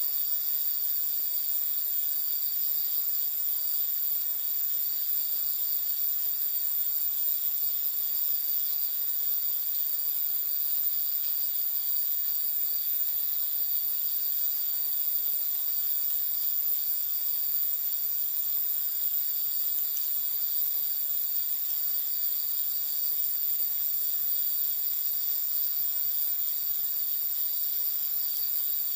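A steady, high-pitched chorus of night insects, trilling without a break, over a faint even hiss.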